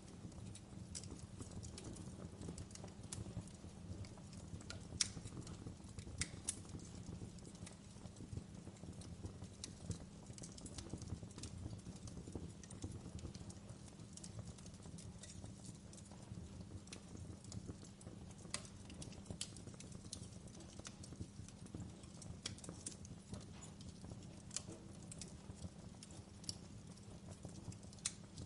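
Wood fire crackling in a fireplace: irregular sharp pops and snaps over a low, steady rush of the burning.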